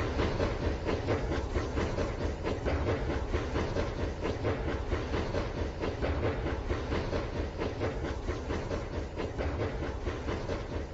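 Rail King battery-powered toy train running on its plastic track: a steady, rapid clatter of the small motor and wheels.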